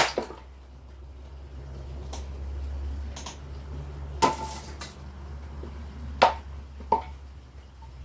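Firewood being worked: six or so sharp wooden knocks at irregular intervals, the loudest at the start and again about four and six seconds in, over a steady low hum.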